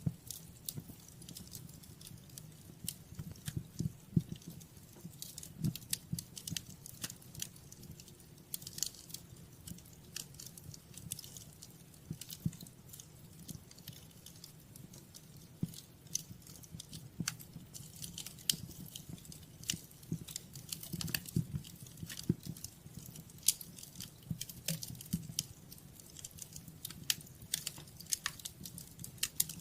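Fireplace fire crackling, with many irregular sharp pops and snaps over a soft low rumble.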